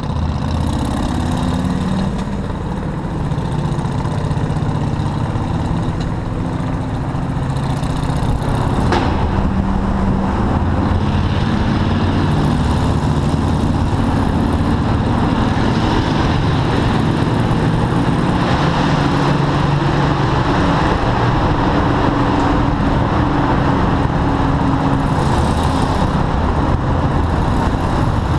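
Motorcycle engine running while riding in city traffic, its pitch rising and falling with the throttle, under a steady rush of road and traffic noise. A sharp click about a third of the way in, and a few short hisses from passing traffic.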